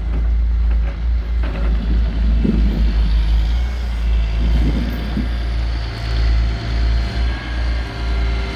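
Diesel engine of a self-loading log truck running steadily as its loader works, with a heavy low rumble and a couple of brief swells.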